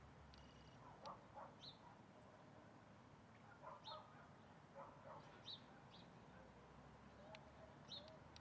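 Faint wild bird calls: short chirps repeated every second or so, some low and some high-pitched.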